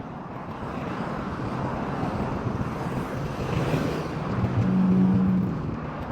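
Street traffic: a motor vehicle drives past, its tyre and engine noise swelling, with a low engine hum loudest about five seconds in before it fades.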